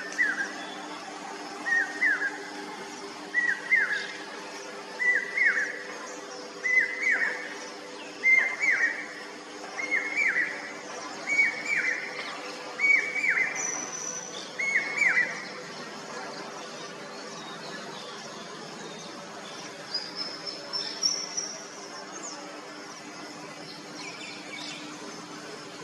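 Common hawk cuckoo calling its repeated 'brain-fever' phrase, about ten phrases roughly one and a half seconds apart, each a little higher than the last, then stopping about halfway through. Fainter, higher bird calls follow later, over a steady low hum.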